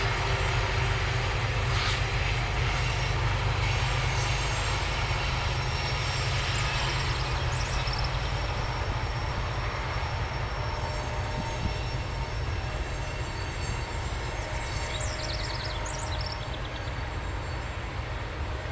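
Union Pacific freight cars rolling past on the uphill grade, a steady rumble of wheels on rail that slowly eases off.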